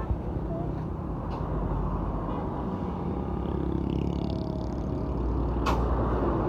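Truck on the move: a steady low engine and road rumble, with one sharp click about five and a half seconds in.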